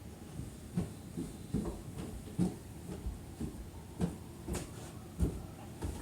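Footsteps: a person walking, a series of soft low thuds about one every half second to second.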